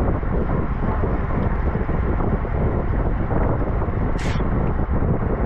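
Wind rushing over the microphone of a camera riding along on a moving road bike: a steady, loud rumble. About four seconds in there is a brief high-pitched squeak.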